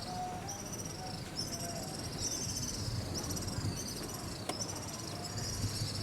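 Insects trilling in a continuous, high-pitched, finely pulsing chorus, with one sharp click about four and a half seconds in.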